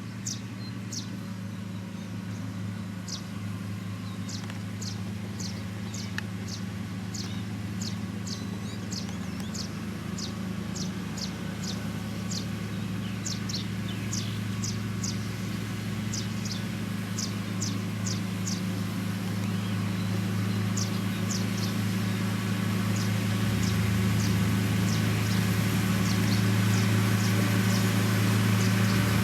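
A heavy diesel construction machine's engine running steadily and growing gradually louder as it comes closer. Over it, a bird chirps in quick, short repeated notes that thin out in the last third.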